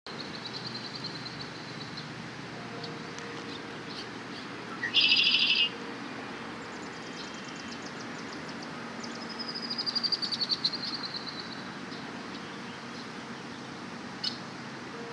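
Birds chirping and trilling over a steady background hiss: a short high trill at the start, a loud rapid trill about five seconds in, and a descending series of quick notes around ten seconds in, with a few single chirps later.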